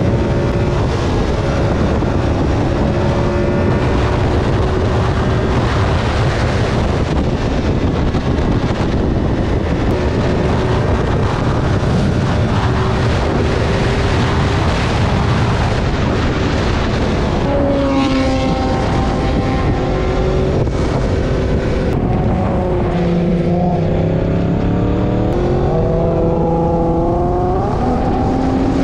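Sport motorcycle engines running on the move under a steady rushing noise. In the last third the engine pitch rises and drops several times with throttle and gear changes.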